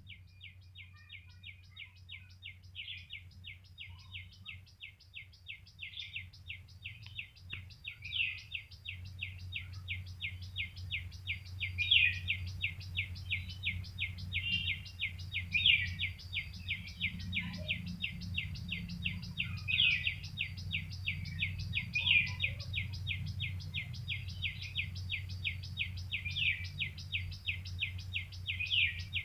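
A bird chirping in a fast, even run of short notes, about four a second, with louder downward-slurred calls every couple of seconds; it grows louder over the first several seconds. A steady low hum runs underneath.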